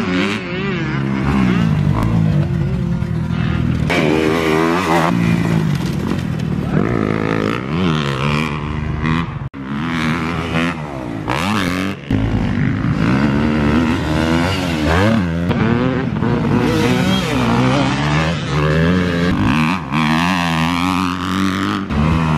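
Dirt bike engine revving up and down repeatedly as it is ridden and shifted through the gears, with two abrupt breaks in the sound about nine and a half and twelve seconds in.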